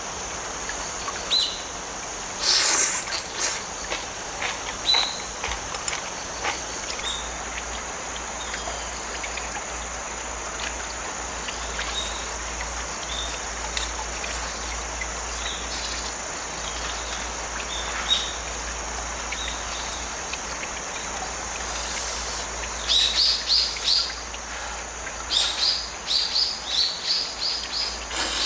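Outdoor nature ambience: a steady high insect trill over the even rush of a flowing stream. A bird chirps here and there, with quick runs of chirps near the end.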